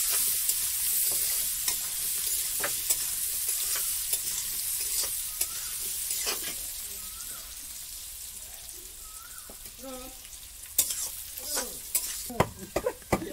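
Potato wedges sizzling as they fry in oil in a metal wok, with a metal spatula scraping and clicking against the pan as they are stirred. The sizzle fades gradually, and the spatula's sharp clicks come more often near the end.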